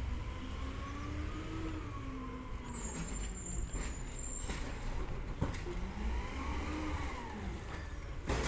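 Diesel engine of a Peterbilt 320 side-loader garbage truck running, its pitch rising and falling twice, with a sharp click about five seconds in.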